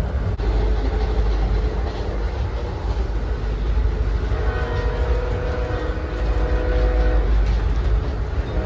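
Amtrak passenger train running with a steady low rumble, and from about four seconds in the horn sounds as a held chord for about three seconds.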